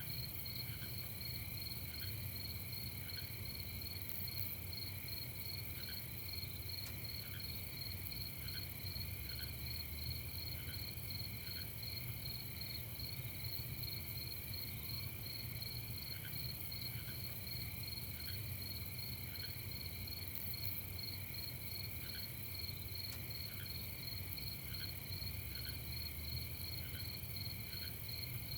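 Night chorus of crickets: steady, rapidly pulsing high chirping that never lets up. A lower short note repeats in runs of a few at a time, over a steady low rumble.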